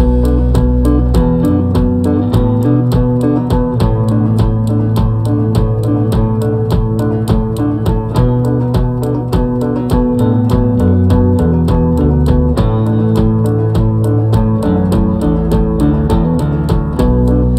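Instrumental intro of a rock song: guitars and bass guitar playing over a steady, even beat.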